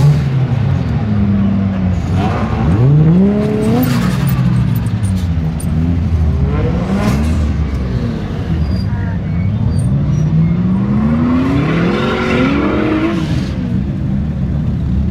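Car engines idling and being revved several times, each rev a rising climb in pitch, the longest and slowest about two-thirds of the way through.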